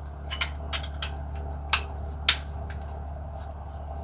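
Short metallic clinks and knocks of hand tools and brake parts being handled, about six scattered taps with the sharpest two near the middle, over a steady low hum.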